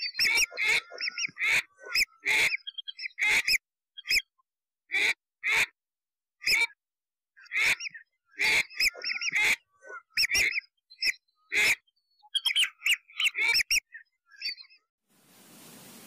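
A rapid series of short, harsh bird calls mixed with whistled notes, in clusters with brief pauses, which stop a little before the end.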